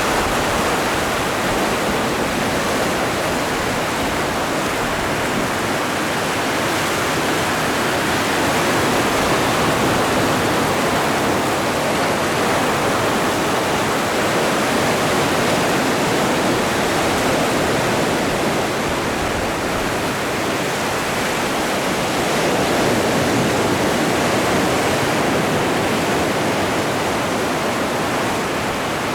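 Atlantic Ocean waves washing ashore in a continuous rush of surf, swelling gently every six or seven seconds.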